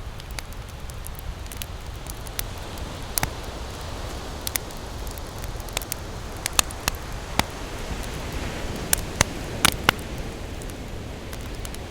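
Wood campfire crackling, with sharp pops that come thickest and loudest from about halfway through, over a steady wash of ocean waves.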